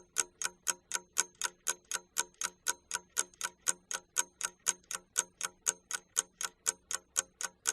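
Clock ticking as a countdown timer sound effect: an even run of quick, sharp ticks, about four to five a second, marking the time given to do the task.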